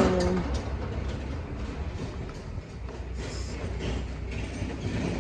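Road traffic: a low rumble of passing vehicles with scattered faint clicks and knocks, fading somewhat after the start.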